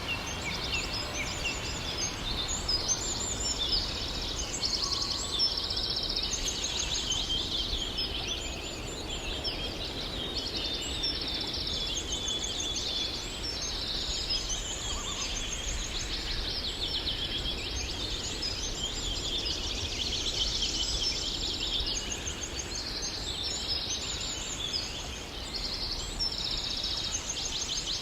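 Several songbirds singing and chirping at once, with overlapping rapid trills, over a low steady rumble.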